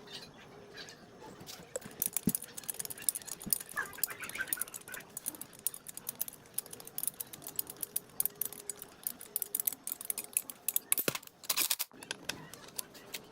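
A rapid, irregular run of small sharp clicks and scrapes, thickest from about two seconds in, with a short louder rasp near the end.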